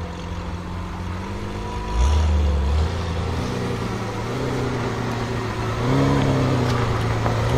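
BMW M5 F90's twin-turbo V8 with a SuperSprint exhaust running near idle, its pitch rising and falling gently twice in light throttle blips.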